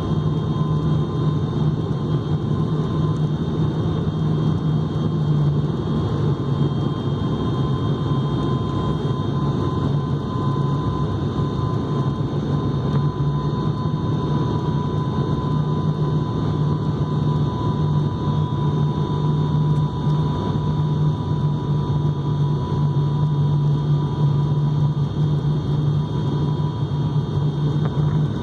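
Steady drone of an airliner's engines and rushing air heard inside the passenger cabin, with a faint steady whine above it.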